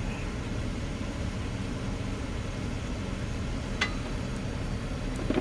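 Plow truck's engine idling steadily, with a single sharp click about four seconds in.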